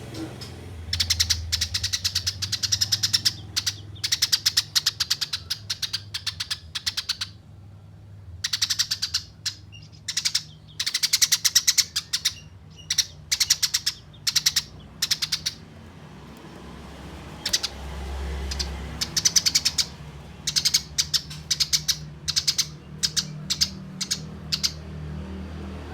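Eurasian tree sparrows giving the long, rapid chattering calls of sparrows fighting: dense runs of sharp chirps in bursts, broken by short pauses, over a faint low hum.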